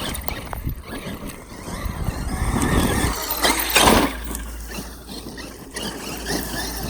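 Traxxas X-Maxx electric RC monster truck being driven, its motor and drivetrain running under throttle with a loud surge about four seconds in, over a low rumble of wind on the microphone.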